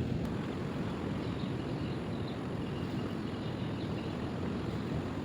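Steady low rumbling outdoor background noise, with a few faint short high chirps scattered through it.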